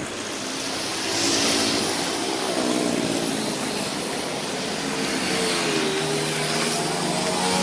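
Motorcycle engine running, its pitch wavering slightly, under a steady hiss.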